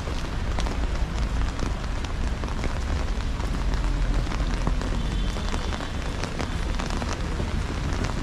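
Heavy rain falling: a steady hiss dotted with many sharp individual drop impacts, over a low rumble.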